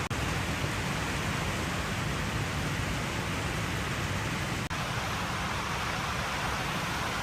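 Steady rain hiss, even and unbroken apart from a momentary dropout about four and a half seconds in.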